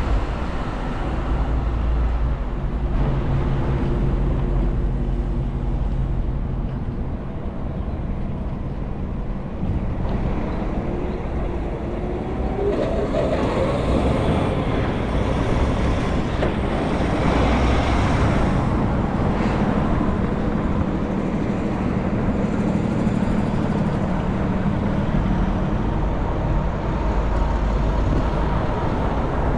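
Engine hum and road noise of a moving road vehicle, with a tone that rises about halfway through as it picks up speed, then settles to a steady hum.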